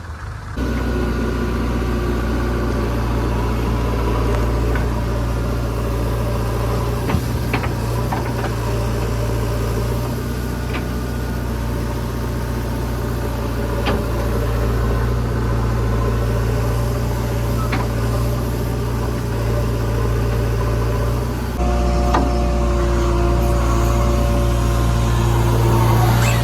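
Heavy diesel machinery engine running steadily, with a few sharp knocks or clanks along the way. The engine note shifts and gets a little louder about twenty seconds in.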